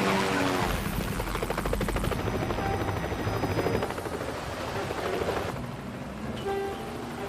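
Helicopter rotor chopping with a fast, steady beat, loud at first and then fading after about five seconds, as a few sustained film-score notes come in near the end.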